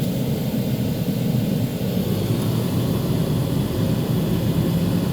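Steady low drone of a vehicle's engine and tyres on the road, holding an even level with no change.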